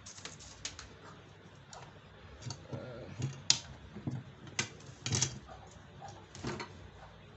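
Irregular clicks and light knocks of plastic parts and cables being handled on a workbench, about eight in all, the sharpest about three and a half seconds in.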